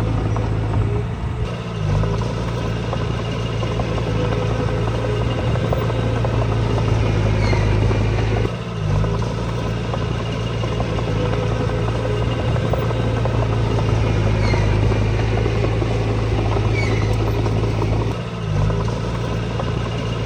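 Heavy diesel engine of earthmoving machinery running steadily under load, with a strong low hum that briefly dips three times.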